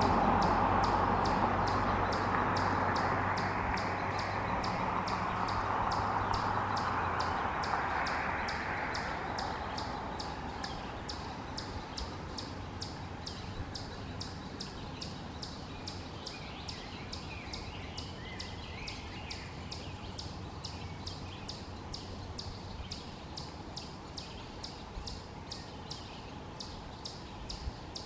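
A passing vehicle fades away over the first ten seconds or so. Under it, and then alone, comes a steady series of short high chirps, about two or three a second, with a few fainter bird calls mixed in partway through.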